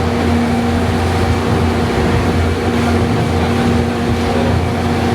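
Snowdon Mountain Railway train climbing, its engine running with a steady, unchanging drone and hum.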